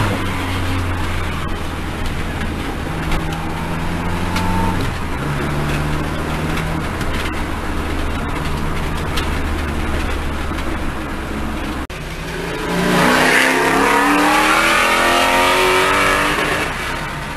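Car engine heard from inside the cabin, running at a steady low note while the car rolls slowly. About twelve seconds in, the revs climb with a rising pitch and more rushing noise for a few seconds, then ease off near the end.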